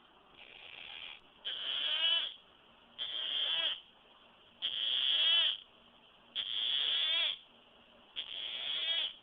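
Imperial Amazon parrot giving a run of six harsh, raspy calls, each under a second long and about one every one and a half seconds; the first is faint and the rest are loud.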